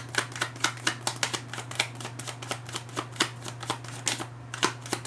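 Tarot cards being shuffled by hand: a quick, irregular run of sharp card clicks, about five a second, easing off briefly near the end before picking up again.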